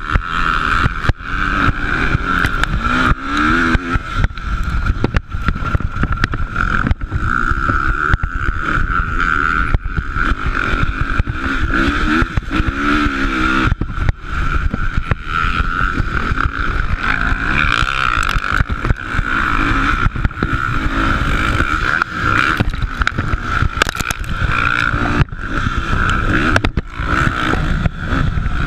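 Motocross bikes racing on a dirt track, their engines revving up and down in pitch.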